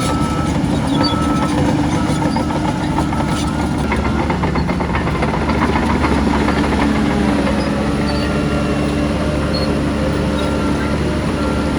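Heavy diesel earthmoving machinery running steadily under load, with rattling around two to four seconds in. A reversing alarm beeps about once a second early on and again in the second half.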